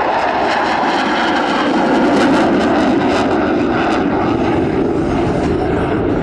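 Jet noise from an F-22 Raptor's twin Pratt & Whitney F119 turbofans as the fighter flies by. It is loudest about two seconds in and eases slightly afterwards.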